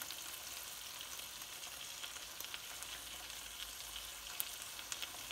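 Chicken and onion masala frying in ghee in a non-stick wok over low heat: a steady sizzling hiss with scattered small crackles.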